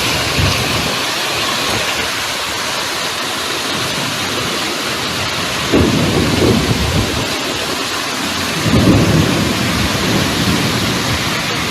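Heavy rain pouring steadily in a thunderstorm, with two low rumbles of thunder, about six and nine seconds in.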